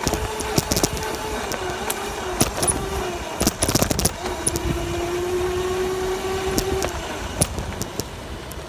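Dirt bike being ridden: its drive runs as a steady pitched drone that dips about three seconds in, holds steady again, and falls away about seven seconds in, over many sharp clicks and rattles.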